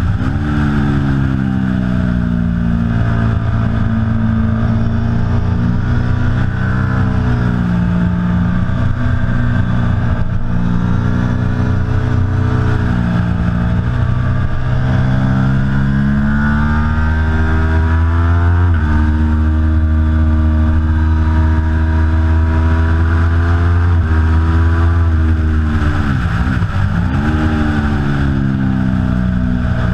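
Aprilia Tuono V4 Factory's V4 engine at speed on track. Its pitch climbs steadily and drops sharply at gear shifts, about two-thirds of the way in and again near the end. Shortly before the end the pitch dips deeply and climbs back up.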